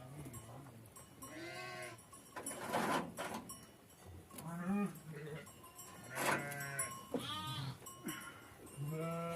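Sheep and goats bleating: a string of about six calls, some overlapping, some high and wavering, and a couple harsher and rougher.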